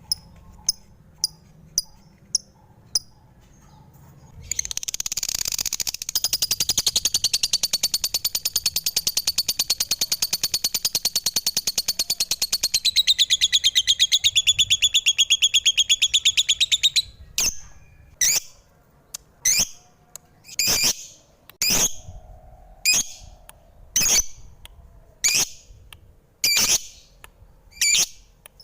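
Lovebird calling: a few short, sharp chirps, then a long, rapid, high chattering trill that runs for about twelve seconds. After that come loud single chirps about once a second.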